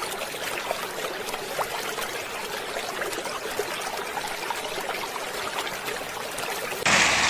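Water running and trickling: a steady splashing hiss with small crackles. It switches abruptly to a louder hiss near the end.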